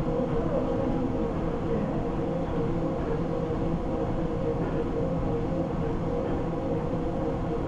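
Treadmill running: a steady motor hum with a held whine over continuous belt and deck rumble.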